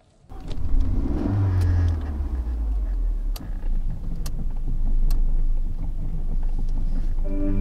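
Car engine started from inside the cabin: it catches, revs briefly and settles into a steady low idle, with a few sharp ticks over it.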